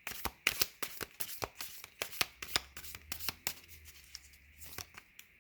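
A deck of tarot cards being shuffled by hand: a quick run of card flicks and riffles that thins out after about three and a half seconds.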